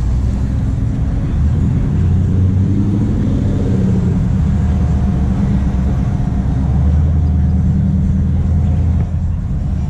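A car engine running close by, a steady low rumble that swells slightly in pitch a few seconds in.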